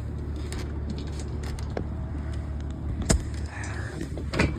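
Steady low hum of an idling vehicle engine, with two sharp metallic knocks, one about three seconds in and one near the end, from a box spring's metal frame being pulled apart.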